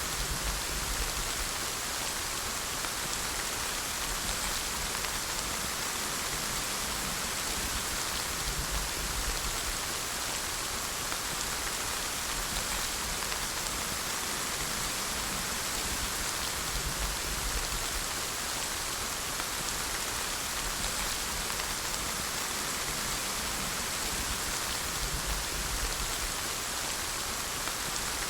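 Steady rainfall, an even hiss of many drops, with occasional low rumbles.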